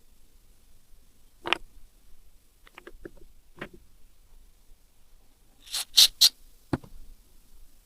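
Scattered clicks and light knocks of hand tools and small engine parts being handled. The loudest is a quick run of three sharp clicks a little before the last third, followed by a single duller knock.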